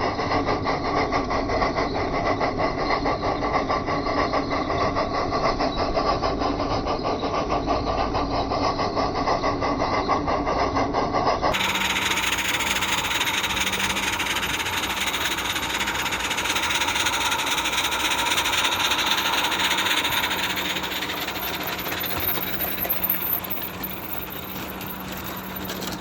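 Accucraft Mortimer live-steam garden-railway locomotive running, its Summerlands chuffer giving a rapid, rhythmic exhaust chuff over steam hiss. About halfway through, the sound changes abruptly to a brighter, hissier tone with a steady low hum beneath it.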